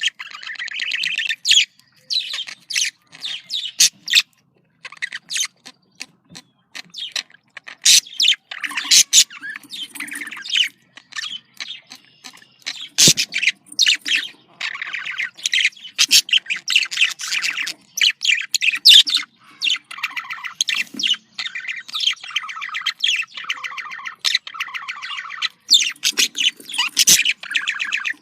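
Budgerigars chattering: rapid, irregular chirps, warbles and short squawks, with brief pauses between bursts.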